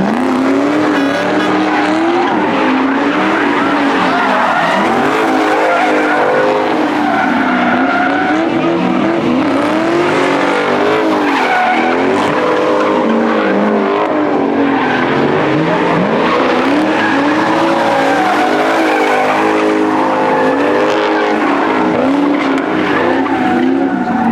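A car engine revving up and dropping back over and over, every second or two, with tyres squealing as the car is spun and slid under power.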